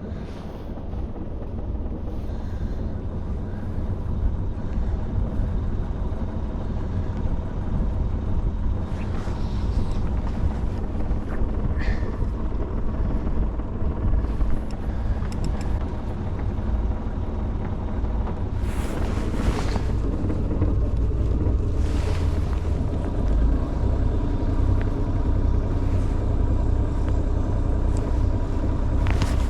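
Sailing boat's engine running steadily at raised revs, about 1200 RPM, to set the anchor, growing slowly louder, with a few brief higher noises over it.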